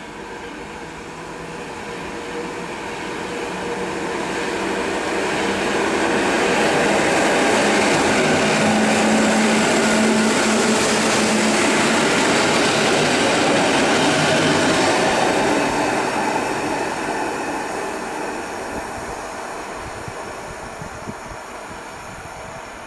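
An EN57 electric multiple unit running past along the platform. Its noise rises as it comes in, is loudest for several seconds while the cars go by with a steady low hum, then fades as it draws away.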